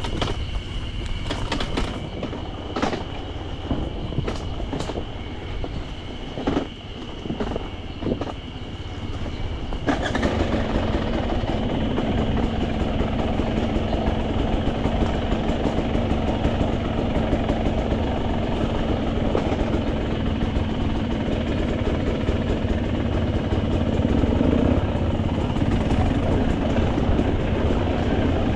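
Off-road motorcycle engine running under way with a steady rumble of ride noise, and a few sharp knocks in the first ten seconds. About ten seconds in it grows louder and a steady engine hum sets in.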